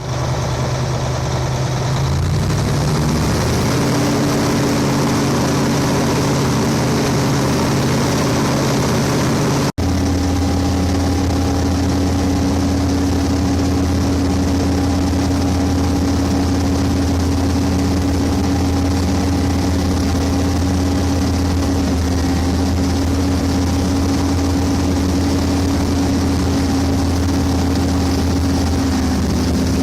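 Mercedes-Benz OM 502 LA twin-turbocharged V8 diesel engine of a Wirtgen W1900 cold milling machine running on test. It speeds up between about two and four seconds in, then holds a steady higher speed. The sound cuts out for an instant about ten seconds in.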